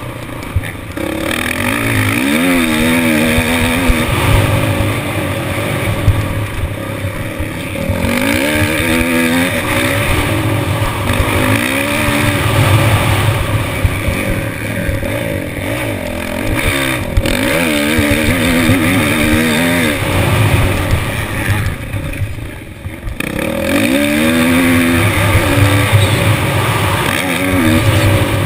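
Motocross bike engine heard from a helmet camera, revving up and down again and again as the rider accelerates and backs off around the dirt track, with wind noise on the microphone. About three-quarters of the way through, the engine drops off for about a second before picking up again.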